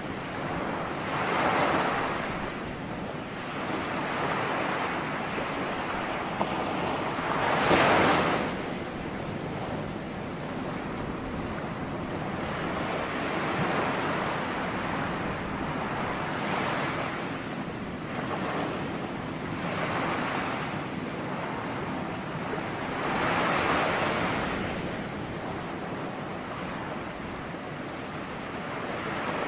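Ocean waves breaking and washing on a shore, a continuous surf hiss with surges that swell and fade every few seconds, one breaker clearly louder about eight seconds in.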